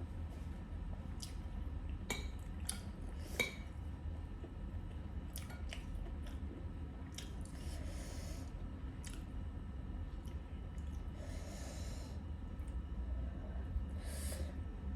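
A person eating spicy instant noodles: chewing and breathy slurps, with scattered sharp clicks of utensils against the dish, over a steady low hum.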